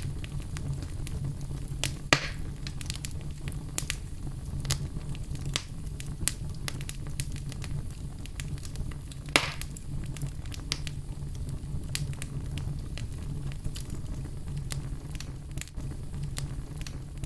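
Fire burning in a fireplace: a steady low rush of flames with frequent small crackles, and two louder pops, about two seconds in and about halfway through.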